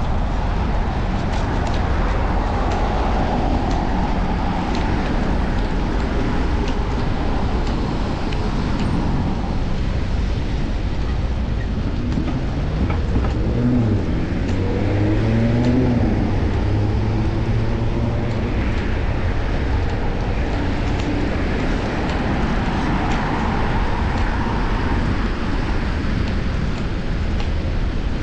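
Wind rushing over an action camera's microphone and street traffic during a bicycle ride. About halfway through, a passing motor vehicle's engine rises and falls in pitch.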